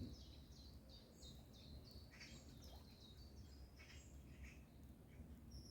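Songbirds singing faintly: a fast run of short, high repeated notes, about three a second, through the first three seconds or so, with a few harsher scratchy calls scattered through, over a low steady rumble.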